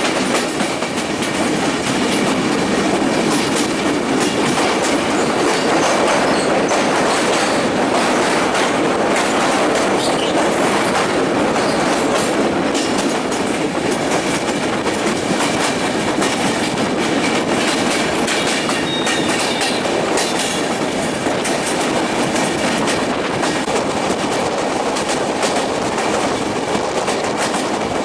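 LHB passenger coach running at speed on the rails, heard from on board: a steady, loud rumble of wheels and running gear with many small clicks from the wheels passing rail joints.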